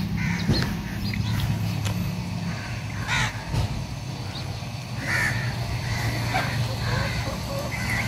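Birds calling in short, harsh calls, roughly one a second, over a steady low hum.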